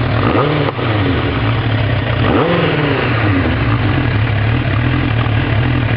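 Freshly rebuilt 907 cc big-bore inline-four of a 1990 Suzuki Katana, fitted with K&N pod filters and a Dynojet Stage 3 jet kit, idling steadily. The throttle is blipped twice, once right at the start and again about two and a half seconds in.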